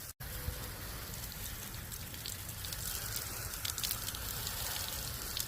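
Water spattering and running off a boat's hull in a steady hiss with light pattering ticks, as it sheets off the graphene-coated surface.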